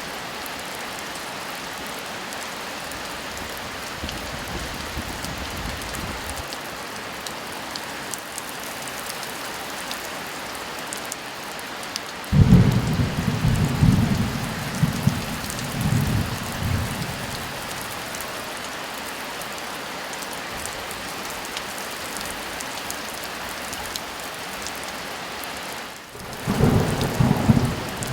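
Heavy rain falling steadily, with thunder rumbling twice: a long rolling peal starting about halfway through, and another near the end.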